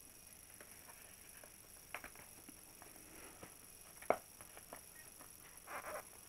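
Faint scattered clicks and taps of a battery, its plug and lead being handled in the cramped battery bay of a foam RC plane, with one sharper click about four seconds in.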